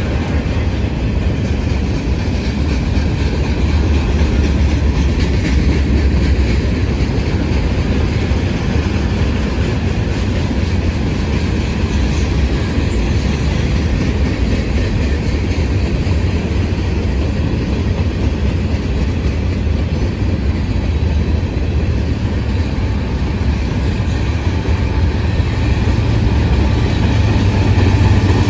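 Norfolk Southern mixed freight train rolling past, its freight cars making a steady heavy rumble with wheel-on-rail clatter. The rumble grows a little louder near the end.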